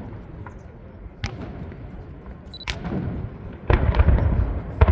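Aerial fireworks exploding: a sharp bang a little over a second in and another near the middle, then a quick run of booms with a low rumble over the last second or so.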